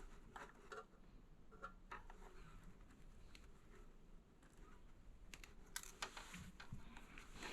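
Faint scattered clicks and small handling noises of a thin electrical wire being trimmed and worked by hand, with a few sharper ticks near the end.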